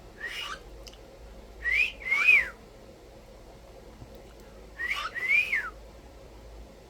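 Cockatiel giving short whistled calls: a brief call at the start, then two pairs of notes that rise and fall in pitch, the second pair about three seconds after the first.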